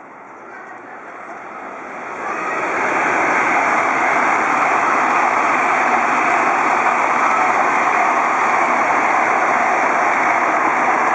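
300 Series Shinkansen train passing at speed: a loud, steady rush of wheel and air noise that builds over the first two to three seconds, then holds.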